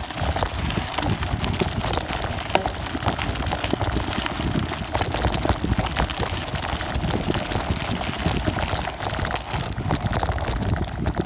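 Riding noise of a bicycle picked up by a phone taped to a tripod on the front of the bike: steady tyre and wind rumble with dense rattling and clattering from the mount and the bike over the path.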